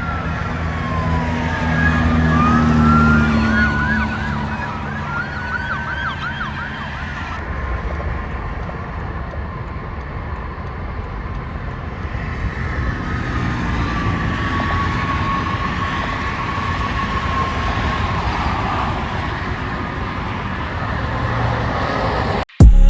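Electronic emergency-vehicle sirens from passing fire, ambulance and police units over traffic noise. A wail slides down at the start, fast yelp cycles follow for a few seconds, and a slow wail rises and falls again later on.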